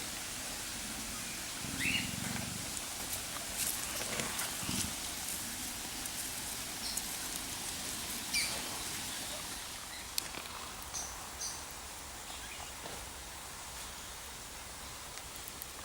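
Birds giving scattered short, high chirps and calls over a steady hiss, with a few sharp clicks.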